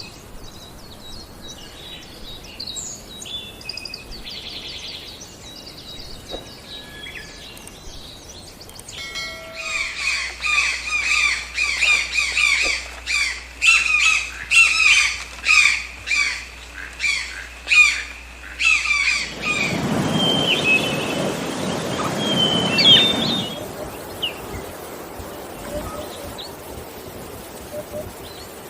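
Bird song and calls outdoors: scattered chirps at first, then about ten seconds of loud, rapid, repeated calls from several birds, followed by a short noisy stretch and quieter background with a few chirps.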